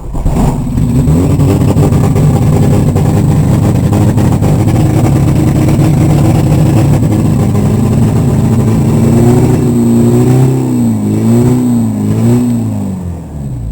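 Volkswagen Rabbit engine catching and running steadily, heard from inside the car, then revved up and down several times in the last few seconds before dropping back toward idle.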